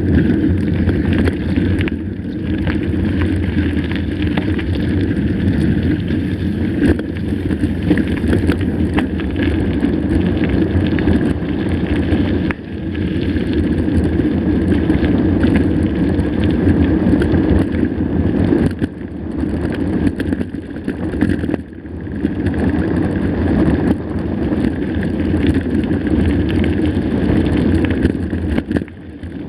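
Mountain bike riding over rough trail: a steady rumble of tyres and wind buffeting the microphone, with frequent small clicks and knocks of the bike rattling over the ground. The level dips briefly a few times.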